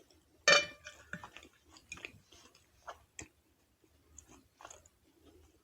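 Close-miked chewing and soft wet mouth sounds of someone eating a tender stuffed bok choy roll, as scattered small clicks. A brief louder sound comes about half a second in.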